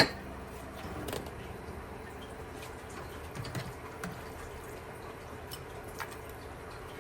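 Steady watery sound with a few faint ticks, typical of liquid in a kitchen.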